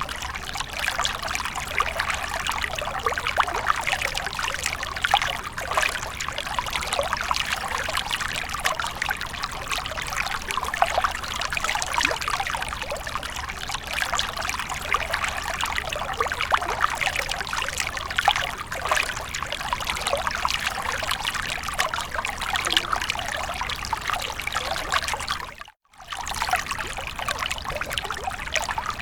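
Water fountain splashing and trickling steadily. The sound cuts out for a split second near the end.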